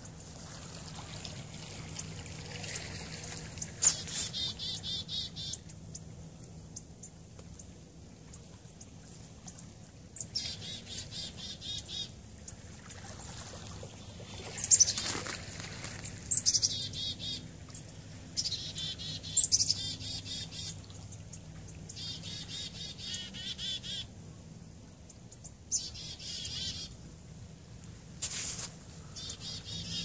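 A small bird singing short high-pitched phrases again and again, one every few seconds, each opening with a sharp note and running into a fast trill.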